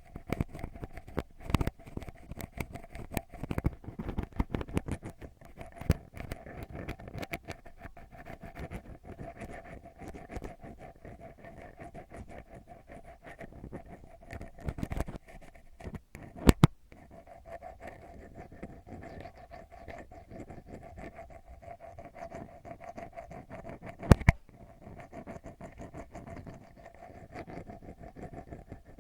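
Ear pick scratching and rubbing right on a microphone in ASMR 'eardrum scratch' style: a continuous dense crackling scratch, busier in the first several seconds, with two sharp loud clicks, one past the middle and one about two-thirds through.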